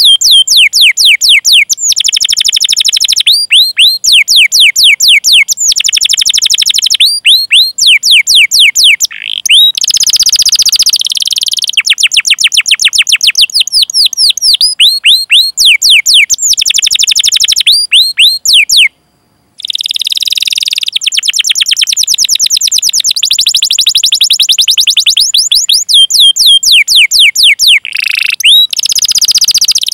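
Domestic canary singing fast, rolling trills of quick sweeping chirps, the repeated 'cuit cuit' call phrases, in phrases of a second or two with a brief silent break about two-thirds through.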